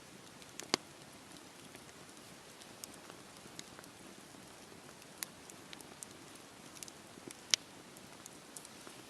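Campfire burning with a soft steady hiss and scattered sharp wood crackles and pops, two louder pops standing out, one near the start and one near the end.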